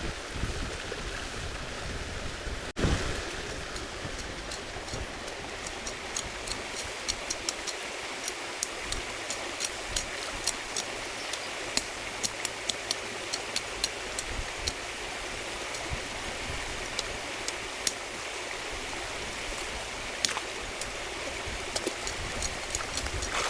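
Steady rush of flowing river water, with many short sharp clicks scattered through it from about a quarter of the way in.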